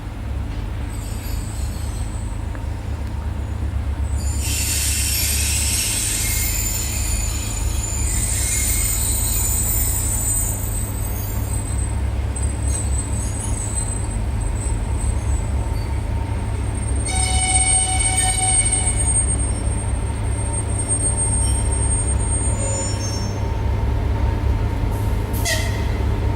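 Freight train hauled by a 2M62U diesel locomotive running past, with a steady low rumble. High-pitched wheel squeal rises in the first half, and a short pitched squeal or tone comes a little past the middle.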